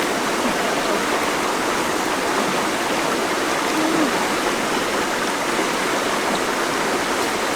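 Water of a waterfall rushing steadily and evenly.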